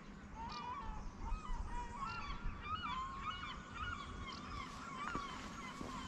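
Birds calling over and over, many short calls overlapping, with a low rumble underneath.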